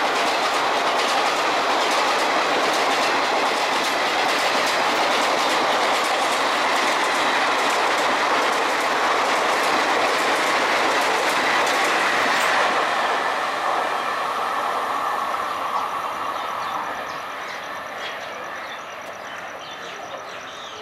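Broad-gauge express passenger train rushing past at speed, its wheels clattering over the rail joints. It is loud and steady for about twelve seconds, then fades as the last coaches pull away.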